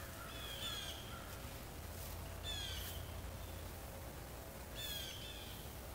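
A bird calling outdoors: a few short calls, two close together near the start, then two more about two seconds apart, over a low steady rumble.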